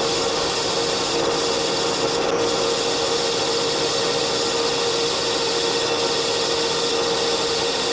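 Machine tool cutting mild steel: a steady running hum with one constant tone, under a continuous cutting hiss.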